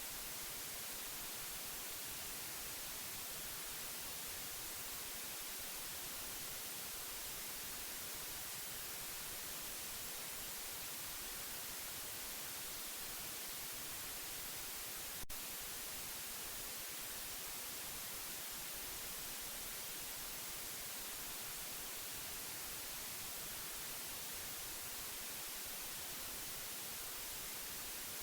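Steady white noise: an even, unbroken hiss that is brightest in the high end, with one faint click about halfway through.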